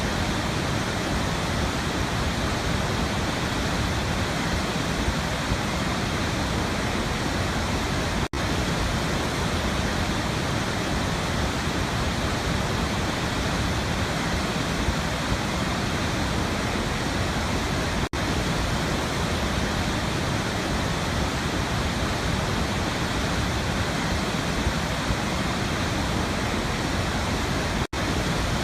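Waterfall: a steady, even rush of falling water with no change in level, cut by a split-second dropout three times, about ten seconds apart.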